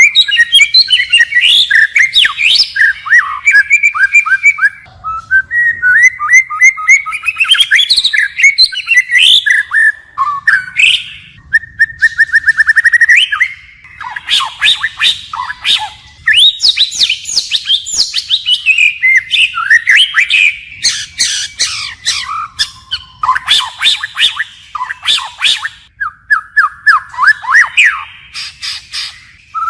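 White-rumped shama singing its varied wild-type song, a loud run of rich whistles, rapid trills and sweeping notes that keeps switching phrases, with only brief pauses between bursts.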